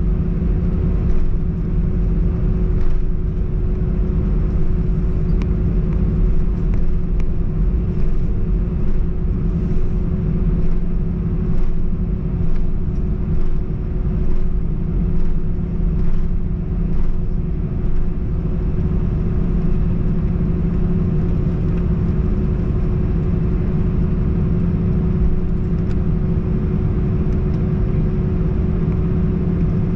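Cabin noise aboard an Airbus A321-111 with its CFM56 engines running: a steady low rumble with a constant hum.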